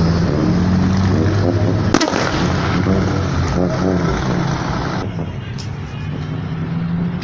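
Vehicle engines running at a steady low rumble, with a single sharp bang about two seconds in; the rumble drops away after about five seconds.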